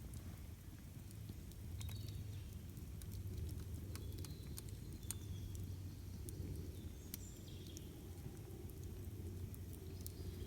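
Campfire crackling, with sharp pops scattered irregularly over a low steady rumble. Brief high bird chirps come through now and then.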